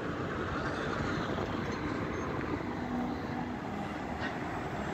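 Distant CSX diesel locomotive approaching a road crossing: a steady rumble with no horn or bell standing out.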